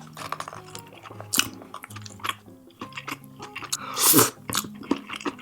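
Close-miked chewing of biryani rice, with many short wet mouth clicks and one louder burst of noise about four seconds in, over soft background music.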